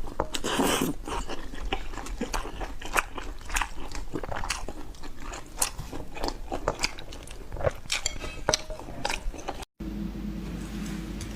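Close-up eating sounds: crunchy food being bitten and chewed, with many sharp, irregular crunches. Near the end the sound cuts out briefly and gives way to a softer, steadier sound.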